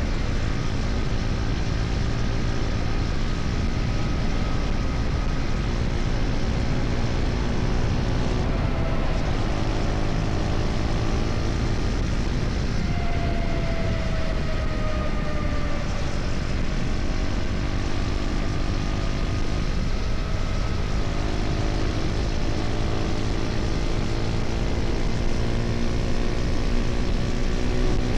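KTM Duke 250's single-cylinder engine running at highway cruising speed, heard from the rider's helmet together with wind and road noise. The engine note falls slightly around the middle and climbs near the end as the bike speeds up.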